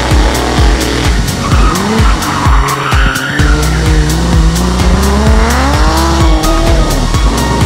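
A drift car's engine revving hard, climbing steadily in pitch for about three seconds in the second half, with tyre squeal, under music with a steady beat.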